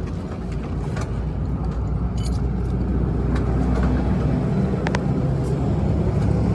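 A motor vehicle engine running steadily with a low hum that grows gradually louder, with a few light clicks.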